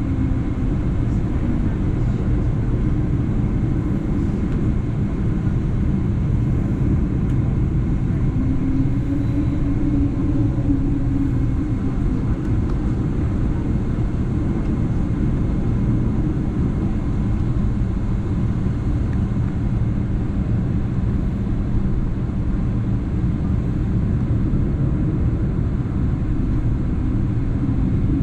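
Steady cabin rumble of a Boeing 777-300ER's GE90 turbofan engines and airflow, heard from inside the passenger cabin. A faint engine tone swells and fades now and then.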